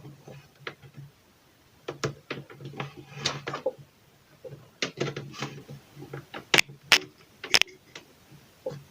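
Crackles, pops and a low buzz that cuts in and out from an audio cable with a loose internal contact, heard through the audio system as the cable is flexed along its length to locate the broken spot.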